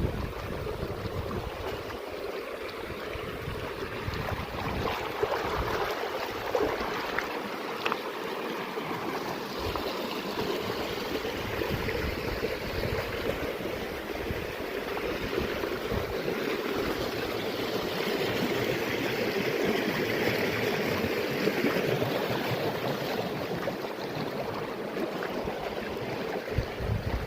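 Running water of a mountain stream rushing steadily, getting a little louder in the second half.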